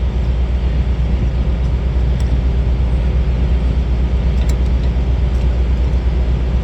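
Semi truck's diesel engine idling steadily with a low, even rumble, and a few faint light clicks.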